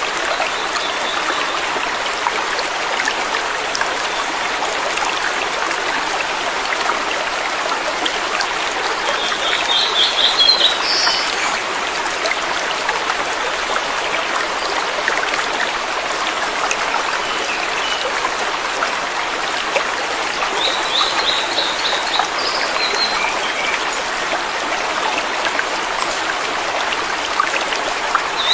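Waterfall water rushing steadily. A bird calls over it in short, rapid, high-pitched chirp series: about ten seconds in, around twenty-one seconds in, and again at the end.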